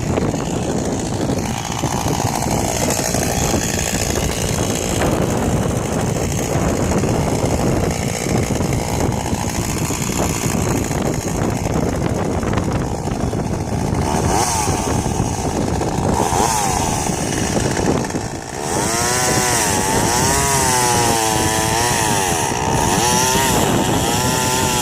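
Chainsaw engine running loud and rough at first. From about three-quarters of the way in, its pitch swings up and down again and again as the throttle is worked.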